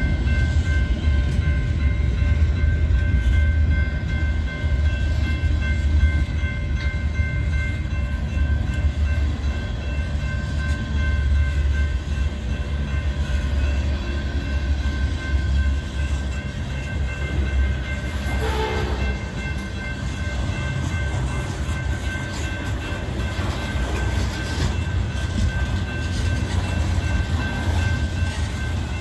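Freight cars of a slowing Union Pacific manifest train rolling past with a steady low rumble, their brakes squealing in several steady high tones.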